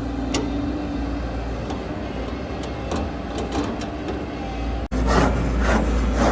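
Heavy diesel engine of earthmoving machinery running steadily, with scattered sharp metallic clicks. About five seconds in the sound cuts out for an instant and returns louder, with a quick series of rattling bursts about twice a second.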